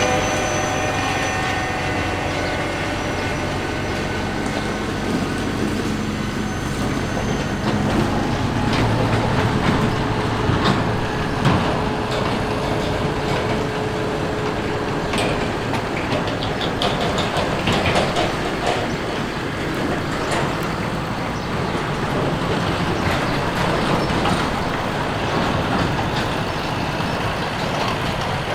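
Heavy diesel harvest machinery working a grain harvest: engine running steadily under mechanical noise, with scattered rattles and knocks in the middle stretch.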